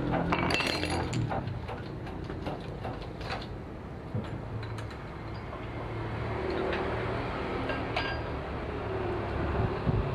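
Light metallic clinks and knocks, several in a cluster about a second in and scattered ones after, over a steady low hum.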